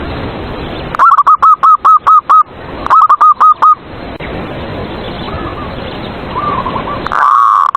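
Zebra doves (perkutut) cooing: two loud, fast runs of short repeated coo notes, about a second in and again around three seconds, with fainter coos from other doves behind and a loud drawn-out note near the end. A steady hiss underlies it all.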